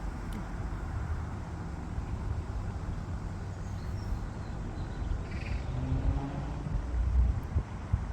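Wind buffeting the microphone, a low irregular rumble, with a faint bird call about five and a half seconds in.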